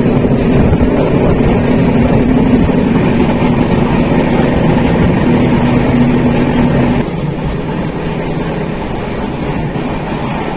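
Passenger train running, heard from inside a moving carriage as a steady rumble and hum. About seven seconds in, the hum stops and the noise drops a little.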